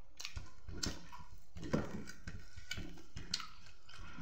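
Close-up eating sounds: a person chewing food with lip smacks and irregular wet clicks, a few sharper ones standing out.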